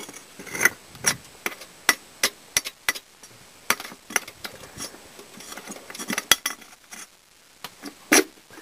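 Irregular metallic clicks and clanks of hand work in a truck's engine bay, tools and parts knocking against metal; no engine running.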